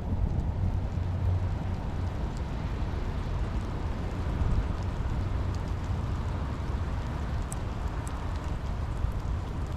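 Steady rain falling over a constant low rumble, with a few faint drop ticks.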